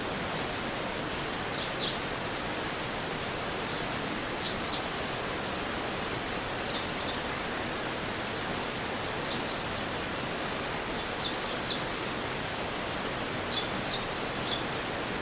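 Mountain stream water rushing steadily. Over it, short high chirps come two or three at a time every two to three seconds, most likely from a bird.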